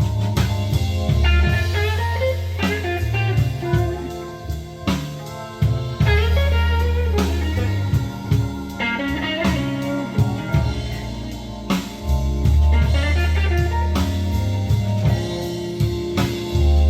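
Instrumental break of a blues song: guitar playing quick runs of notes over bass and a drum kit.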